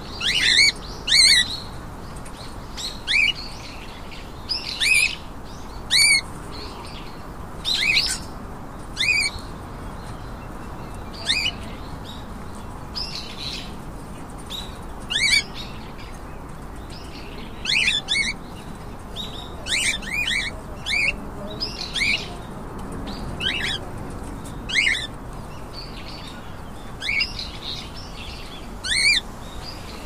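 Small birds chirping: short, sharp, high chirps repeated every second or two, sometimes in quick pairs, over a steady low background hiss.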